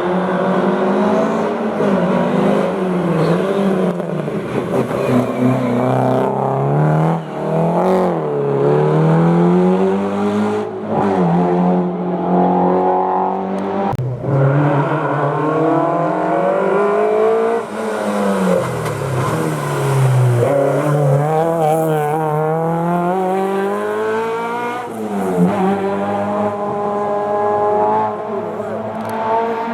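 Historic rally car engine revving hard through a hairpin, its pitch repeatedly climbing and dropping sharply as the driver works through the gears on and off the throttle.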